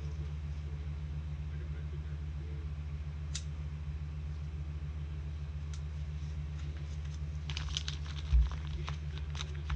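Steady low hum with a few light clicks: one about three seconds in and another near six. Near the end comes a run of light clicks and rustling with a soft low thump, typical of trading cards and card sleeves being handled on a table.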